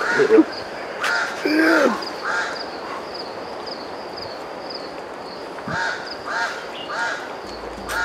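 A bird calling with repeated harsh, crow-like caws, in two runs of three about half a second apart, the second run near the end. A faint high wavering trill sounds behind them in the middle stretch.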